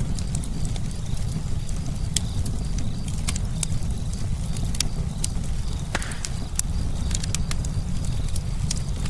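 Campfire crackling: irregular sharp snaps and pops of burning wood over a steady low rumble of the flames, with one louder pop about six seconds in.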